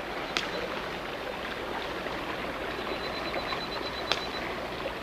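Steady rush of a forest stream, with a faint high pulsing tone running through it on and off, and two short sharp clicks.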